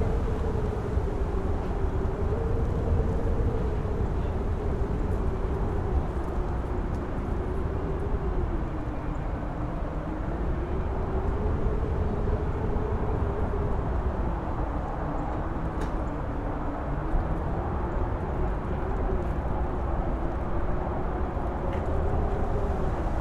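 Strong wind on a mountain top howling, a single tone slowly rising and falling in pitch over a heavy low rumble.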